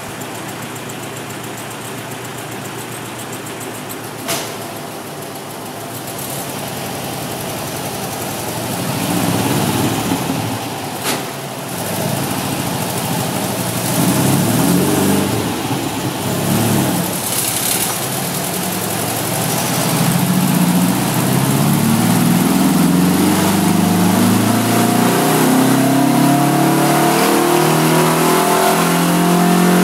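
Porsche 914's 2056cc type 4 air-cooled flat-four on twin 40 Dellorto carburettors, running steady, then blipped a few times, then pulling up through the revs on a rolling road, its pitch climbing steadily over the last ten seconds. A sharp click sounds about four seconds in and another around eleven seconds.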